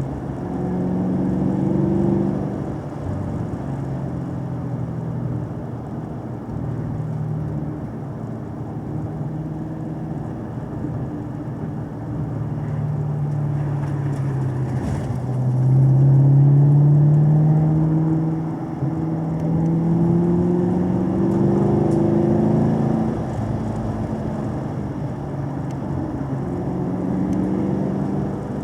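Car engine pulling and easing off, its pitch climbing and dropping several times as it works through gears, loudest about halfway through.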